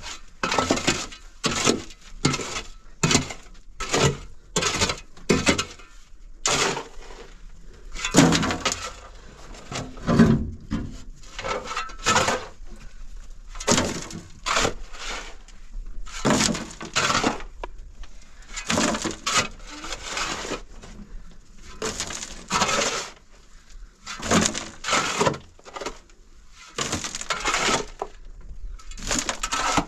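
Repeated crunching, cracking strokes, about one or two a second with brief pauses, like something brittle being broken or crushed.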